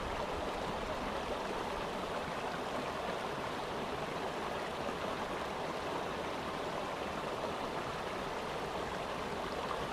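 Running water flowing with a steady, even rush, like a stream.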